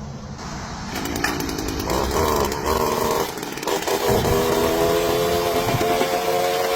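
A small engine or motor running, its pitch settling into a steady hum about four seconds in.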